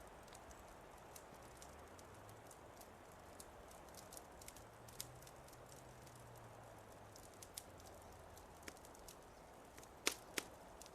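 Wood fire crackling quietly: sparse sharp pops and snaps over a soft steady hiss, with two louder pops near the end.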